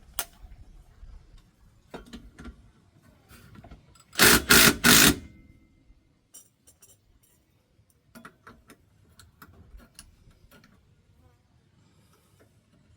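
Impact wrench hammering in three quick bursts lasting about a second, about four seconds in, working a bolt loose on the car's rear suspension. Scattered clicks and clinks of hand tools come before and after.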